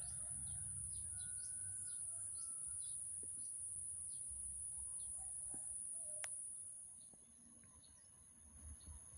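Small birds chirping in quick short calls over a low background rumble, with a steady high-pitched whine throughout; the outdoor sound dies down about seven seconds in.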